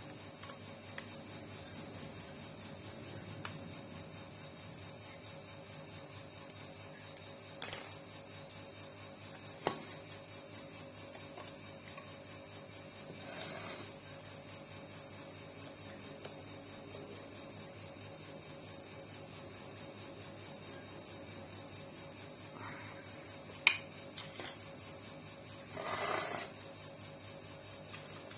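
Hands working on sewing-machine parts: a few sharp metal clicks, the loudest near the end, and short scraping and rubbing sounds over a steady faint hum.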